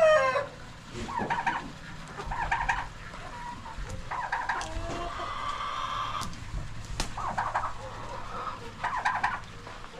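Chickens clucking in a series of short calls, with one longer call about halfway through and a sharp click a little later.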